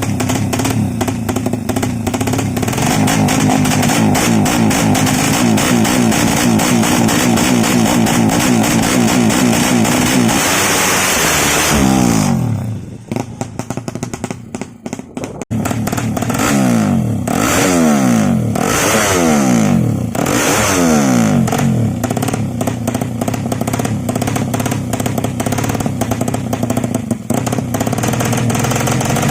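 Ported, big-bore Suzuki Satria FU motorcycle engine held at high revs, dropping off about twelve seconds in, then blipped about five times in quick succession before running steadily again.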